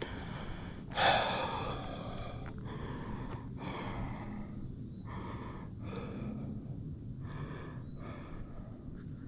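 A man breathing hard: a loud gasping exhale about a second in, followed by a run of heavy, regular breaths.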